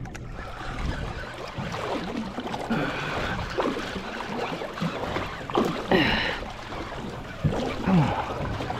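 Wind and water noise aboard a small fishing boat at sea, over a low steady hum. Several short bending vocal sounds break through, the strongest near the middle and near the end.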